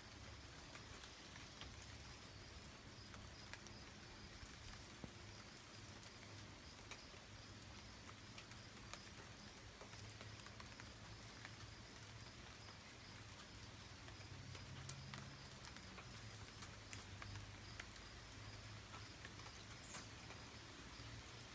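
Faint rain pattering, with scattered sharp drop ticks over a soft steady hiss. A brief high squeak comes near the end.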